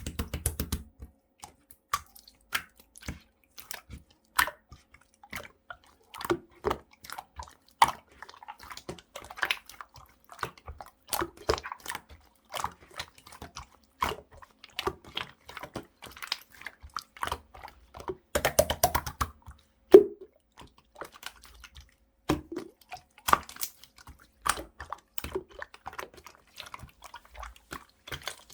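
Clear slime being squished and pressed by hand, making irregular wet clicks and pops with a few louder squelches.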